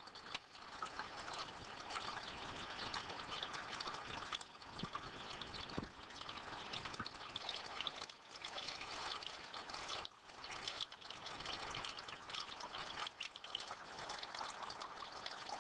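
Faint clicks, taps and rustling of plastic and metal brake master cylinder parts being handled, over a low steady hiss.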